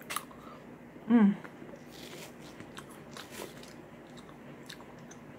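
A person chewing a mouthful of food, with soft wet mouth clicks and light crunches. A short vocal sound comes about a second in.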